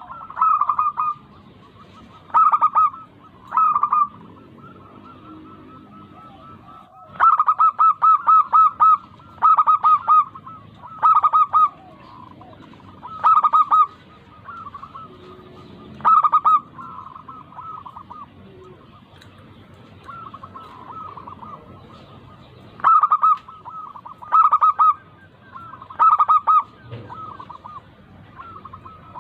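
Zebra doves cooing: short phrases of quick, rapidly repeated coo notes, coming every one to three seconds with some longer pauses.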